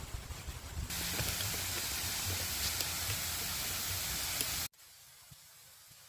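Waterfall rushing: a steady, loud hiss of falling water that starts abruptly about a second in and cuts off suddenly near the end, leaving only a faint hiss. Before it, wind rumbles on the microphone.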